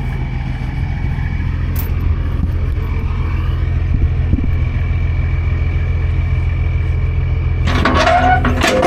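Semi truck's diesel engine running steadily with a low rumble, with a short burst of clatter and noise near the end.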